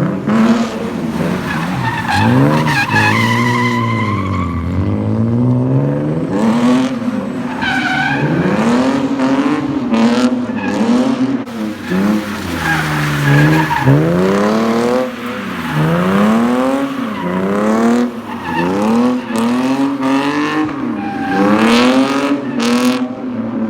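BMW E36 with a welded rear differential sliding in donuts: the engine revs up and falls back again and again, every second or two, while the rear tyres squeal.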